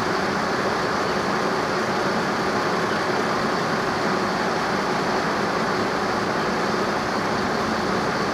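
An engine running steadily, a constant hum under an even wash of noise.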